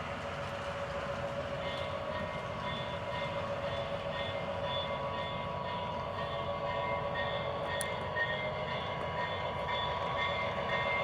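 Lionel GP38 O gauge model diesel locomotive running with its Railsounds sound, a steady hum that grows gradually louder, joined about two seconds in by a high tone pulsing about twice a second.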